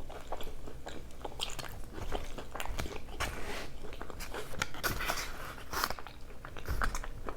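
A person eating close to the microphone: chewing with wet mouth sounds and crunchy bites of food.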